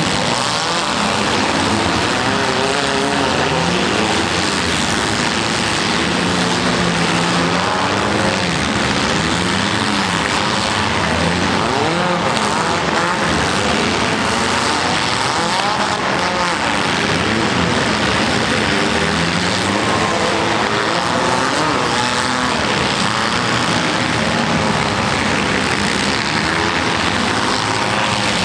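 Several small car engines revving up and down over one another.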